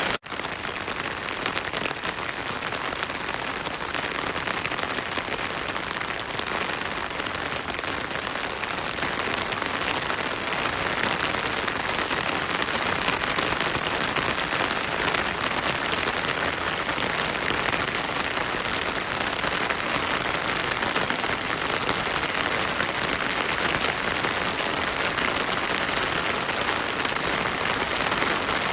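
Heavy rain falling steadily, a dense even hiss with no single drops standing out. The sound dips for an instant right at the start, then carries on unchanged.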